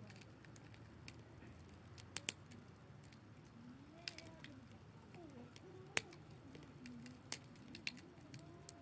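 Wood campfire crackling, with irregular sharp pops; the loudest pops come about two seconds in, about six seconds in and just past seven seconds.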